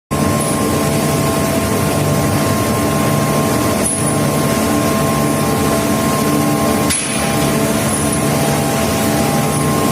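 Steady, loud machinery din of an induction furnace melt shop, with a constant high-pitched hum over dense rumble and hiss. The sound breaks off briefly twice, about four and seven seconds in.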